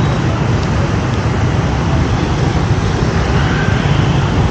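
Steady city street traffic noise, mostly motorbikes running past, with no single event standing out.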